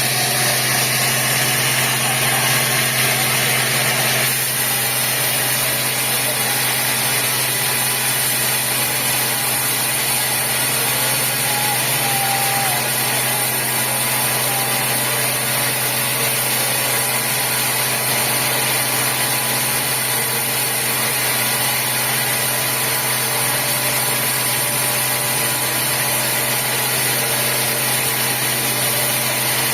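Sawmill machinery running steadily, an engine-driven hum with a constant high hiss; a higher hiss drops out about four seconds in.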